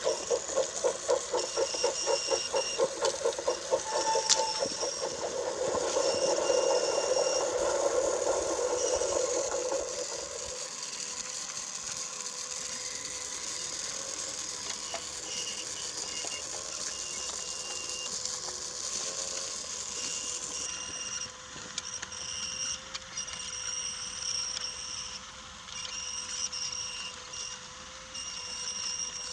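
Battery-powered Brio toy train running on wooden track. Its wheels make a fast, regular clicking and rattling for the first several seconds, then the small electric motor hums steadily.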